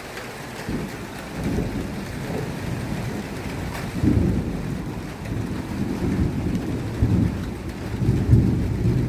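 Rolling thunder rumbling in several swells, building from about a second in and loudest around the middle and near the end, over the steady patter of falling rain. The rumble follows a lightning strike seen seconds before.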